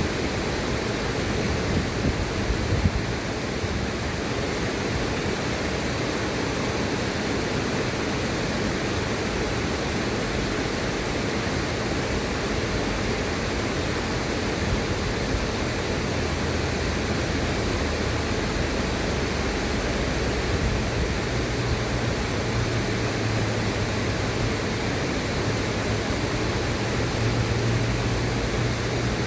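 River water rushing steadily, a dense, even noise with no breaks. A low rumble underneath grows a little stronger in the last third.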